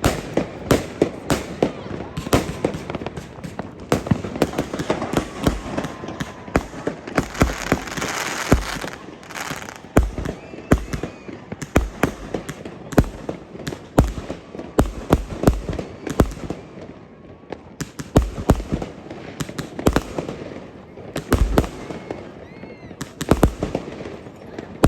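New Year's Eve fireworks display: a rapid, irregular run of bangs from bursting shells, with a stretch of dense crackling about eight seconds in and a few faint whistles.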